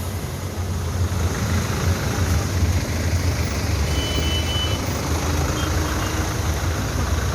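A heavy vehicle's engine running with a steady low rumble, with a brief high beep about four seconds in.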